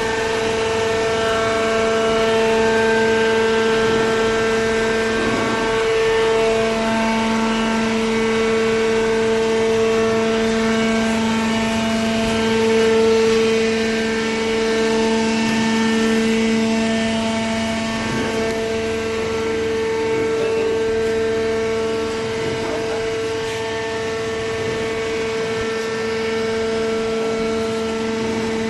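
Horizontal hydraulic baler's hydraulic power unit running with a steady hum, its pitch holding while its strength shifts a little now and then.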